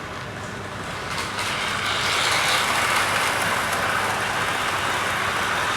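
Model train running on the layout track: a steady rolling rattle and motor hum that grows louder about a second and a half in, then holds.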